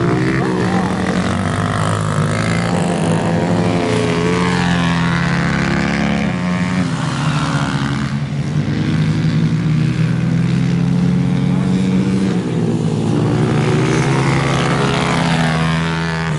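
Racing motorcycle engines running hard, their pitch rising and falling as the riders accelerate and shift.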